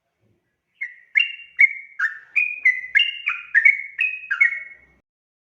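Yellow-vented bulbul (trucukan) singing one long, bubbly phrase of about a dozen quick notes that hop up and down in pitch. It starts about a second in and stops about a second before the end.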